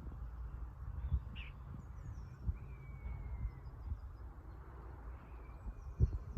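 Wild birds chirping with short gliding calls over a steady low rumble, with a couple of heavier thuds near the end.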